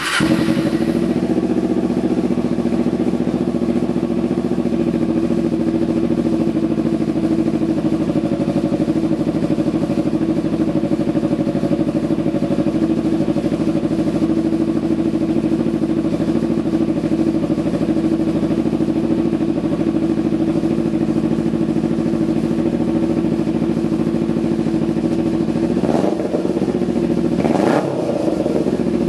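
2011 Kawasaki Ninja 250R's parallel-twin engine, breathing through an aftermarket performance exhaust, starts up and then idles steadily. There are two brief changes in the sound near the end.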